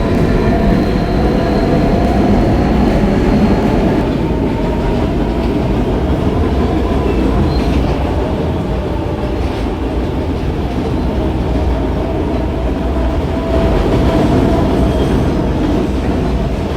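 R160B subway train with Siemens propulsion running between stations: steady wheel and track rumble with a steady motor whine in several tones, a higher thin whine fading out about four seconds in.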